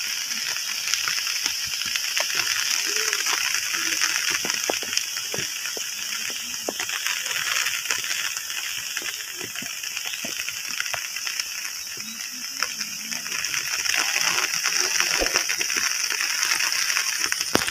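Light rain falling: a steady hiss with a dense scatter of individual drops and drips striking.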